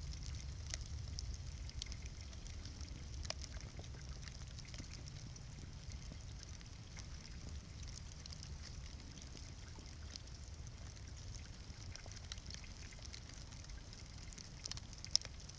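Bonfire of burning wood crackling, with scattered sharp pops over a steady low rumble and hiss, and one louder pop near the end.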